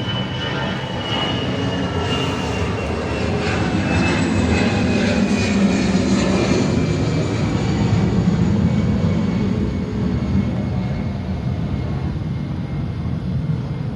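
A passing engine: a steady drone with a thin high whine that slowly falls in pitch, swelling louder through the middle and easing off toward the end.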